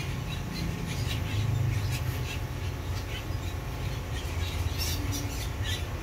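Birds chirping and squawking in quick, short calls, several a second, over a steady low hum.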